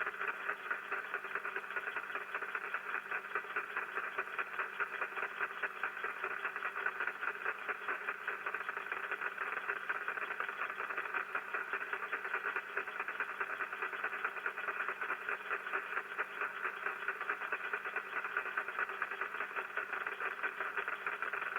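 Shortwave receiver audio of rain static (QRN) picked up by a Yagi antenna: a steady, dense, rapid crackling hiss, heard through the radio's narrow audio band. Several static sources are working together.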